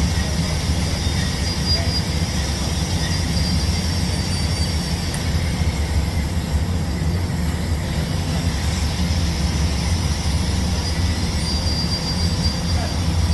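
TIG welding on pipe: a steady arc hiss over a low electrical hum, running without a break, with a faint high whine.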